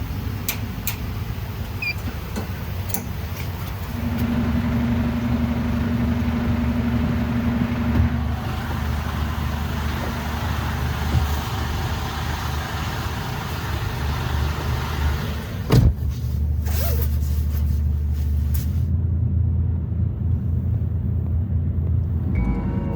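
A semi-truck tractor's engine running with a steady low rumble. A thin steady tone sounds for about four seconds, and there is a single sharp knock a little past the middle.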